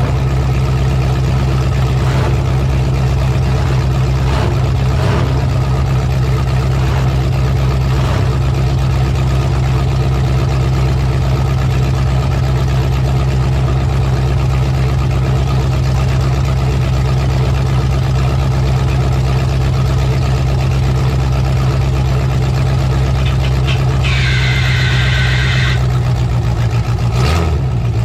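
Demolition derby truck's engine running steadily and loud. About three-quarters of the way through, a high squeal lasts about two seconds, and near the end the engine note briefly dips and wavers.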